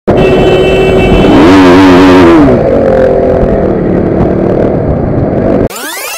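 KTM RC 200's single-cylinder engine running while riding in traffic, its note rising and falling about a second and a half in. Near the end it cuts to a rising, sweeping electronic sound effect.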